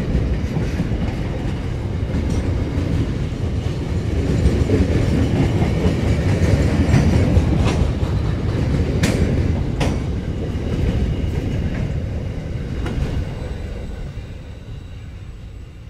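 Freight train's boxcar wagons rolling past on steel rails: a steady rumble with a few sharp clicks from the wheels, fading away as the last wagon passes near the end.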